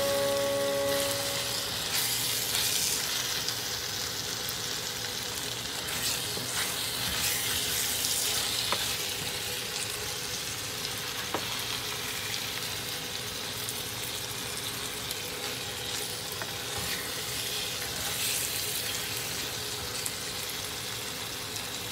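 Chicken, potato and capsicum curry sizzling in a saucepan while a wooden spatula stirs it, with a few light scrapes of the spatula against the pan.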